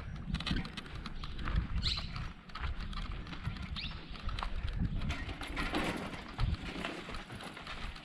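Bicycle rattling and knocking over rough ground, picked up through a bike-mounted camera: a stream of irregular clicks over a low rumble, with a brief high squeak about two seconds in.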